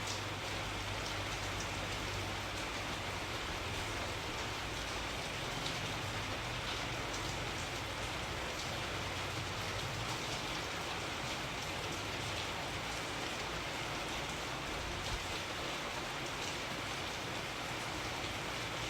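Steady rain falling: an even hiss with scattered drop ticks and a low rumble underneath.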